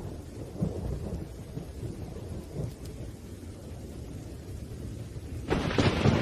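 Thunderstorm with rain: low, rolling thunder rumbles, then a louder, sharper thunderclap breaks about five and a half seconds in.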